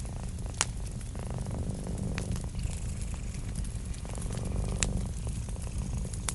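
Cat purring steadily, its purr swelling and fading with each breath, over a wood fire crackling with a few sharp pops.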